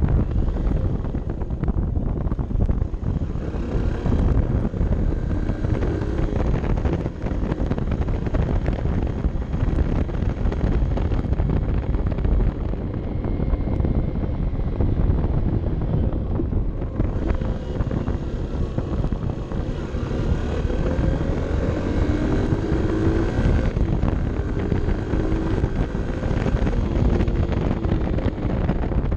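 Honda CB 125 F's single-cylinder four-stroke engine running on the move, mostly buried under heavy wind rumble on the microphone. The engine's pitch rises and falls several times in the second half.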